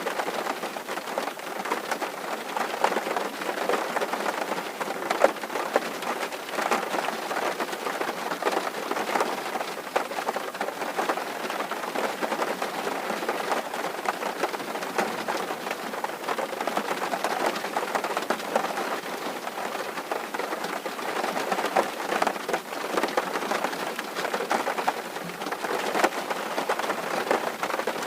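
Steady rain drumming on a tin roof: a dense, even patter of many small drop impacts.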